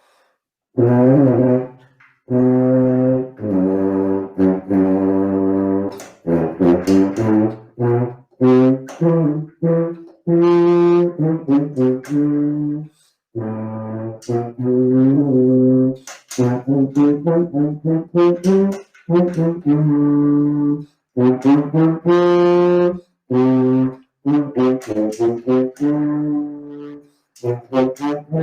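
Tuba played with a toothpick set in the lead pipe to steady intonation, running through a slow passage of sustained low notes with short breaks for breath.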